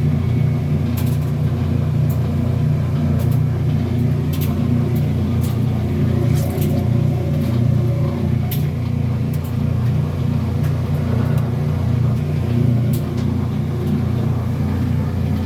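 Kenmore washing machine running with a steady low hum and occasional faint clicks, a sound the owner likens to the drum wringing out the load.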